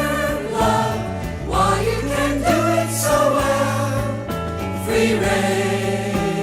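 1972 psychedelic rock song: several voices singing together in choir-like harmony over a steady bass line and the band.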